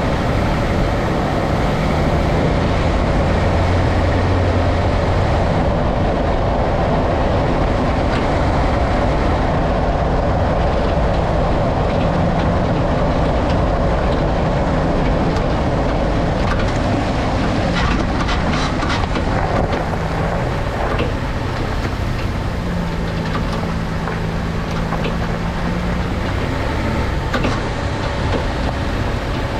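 Nissan Frontier pickup being driven: steady engine and road noise, with a run of short knocks about two-thirds of the way in. The knocks are the clunk the owner traced to a loose passenger-side sway bar link working as the suspension moves.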